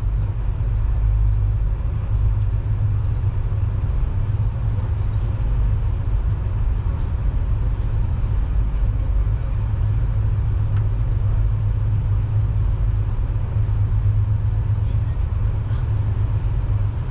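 Steady low rumble of a moving passenger train, heard from inside the car, with a few faint clicks.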